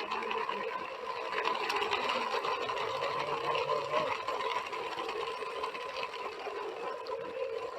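Small electric motor and gearbox of a toy construction vehicle whining steadily.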